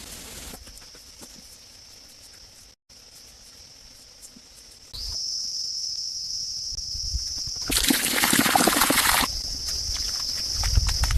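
Steady high-pitched insect chorus, crickets or cicadas, much louder from about halfway through. About eight seconds in, a burst of rushing noise lasts for about a second and a half.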